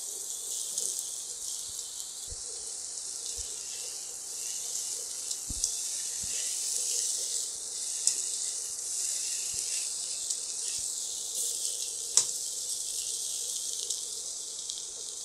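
Vegetables and fried fish pieces sizzling in oil in a stainless steel pan, a steady high hiss, with occasional clicks and scrapes of a slotted spatula against the pan.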